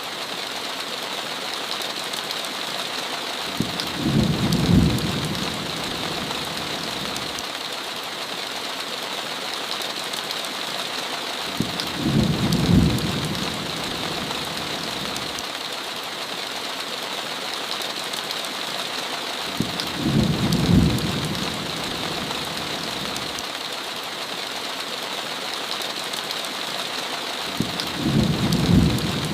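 Heavy rain falling steadily, with a low rumble of thunder that swells and fades four times, about every eight seconds.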